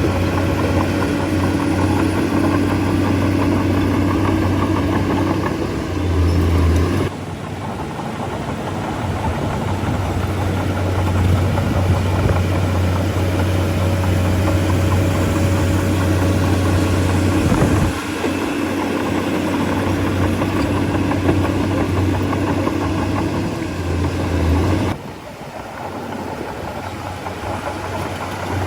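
Bulldozer diesel engine running steadily with a low drone. The engine sound rises briefly and then changes abruptly about seven seconds in, dips sharply at about eighteen seconds, and shifts again near the end.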